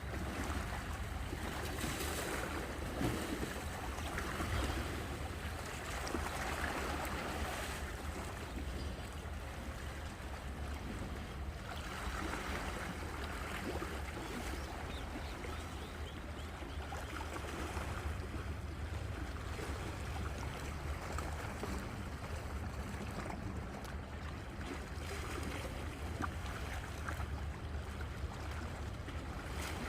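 Sea waves washing in on the shore, surges of rushing surf every few seconds over a steady low rumble.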